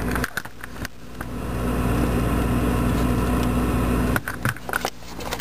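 Steady low hum of a running GE refrigerator, swelling for a few seconds in the middle, with clinks and knocks of items being moved about inside it near the start and end.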